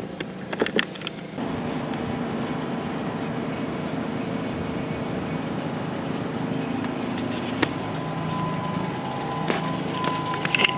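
A few clicks, then a steady mechanical hum from the 2002 Dodge Grand Caravan starts about one and a half seconds in and holds even. A faint steady tone joins it near the end.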